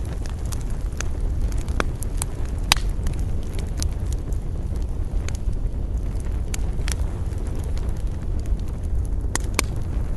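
Wood campfire burning, crackling and popping with irregular sharp snaps, over a steady low rumble of wind.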